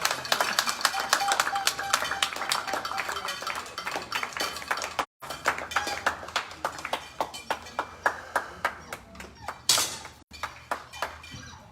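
Audience applauding, the clapping thinning out and fading away over the seconds, with one brief louder burst of noise near the end.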